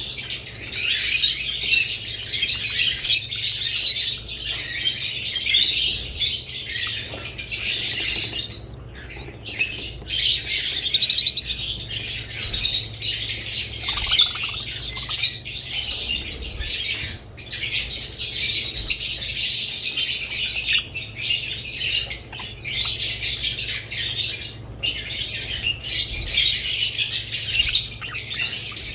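Budgerigars and lovebirds chirping and chattering together in a dense, continuous chorus of high-pitched calls, broken by a few brief lulls.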